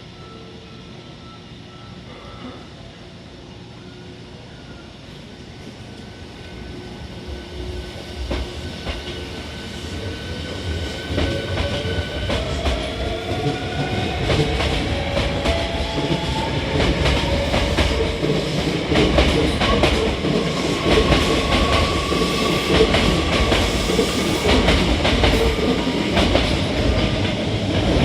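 Hankyu 1300 series electric train pulling away: the whine of its traction motors rises in pitch as it gathers speed, with the wheels clattering over rail joints. The sound grows louder as the cars pass close by.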